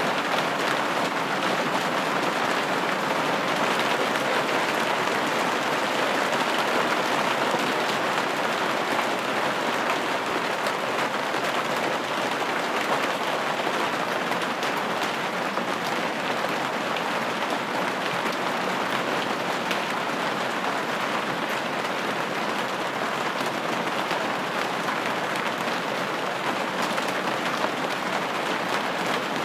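Steady rain pattering on a window pane, an even hiss of many small drop impacts with no thunder or sudden changes.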